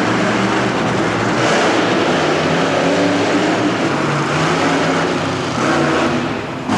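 Monster truck engine running loud in an indoor arena, its pitch shifting up and down as it revs, easing off briefly near the end.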